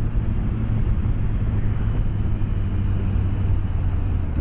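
BMW K1200S inline-four engine running steadily on a hill climb, with a low, even engine note under a rush of wind and road noise, heard through a microphone inside the rider's helmet.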